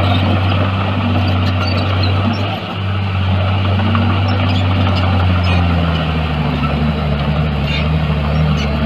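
Diesel engine of heavy earthmoving equipment running steadily under load, its pitch wavering up and down, with a brief dip about two and a half seconds in and a shift to a lower note about five and a half seconds in.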